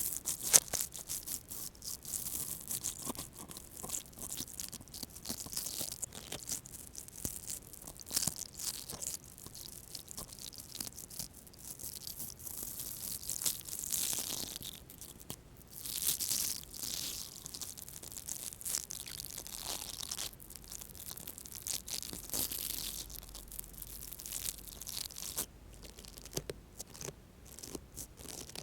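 Interdental toothbrush bristles brushing and scratching: dense, crisp scratching with many small clicks, easing off near the end.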